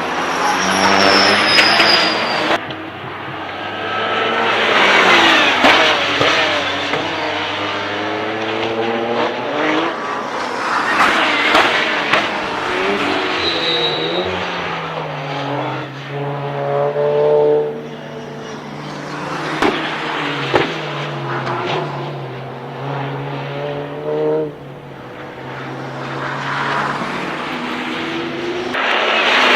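Porsche 911 GT3 Cup race cars (991) passing at racing speed one after another, their flat-six engines rising in pitch through the gears and dropping on downshifts, with the note swelling and fading as each car goes by.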